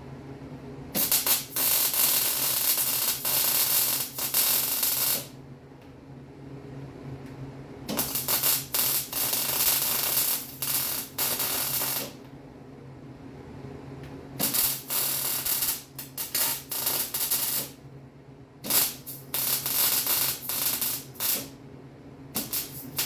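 Arc welding on a steel Jeep frame: a crackling sizzle in five bursts of about one to four seconds each, starting and stopping sharply, with a steady low hum underneath throughout.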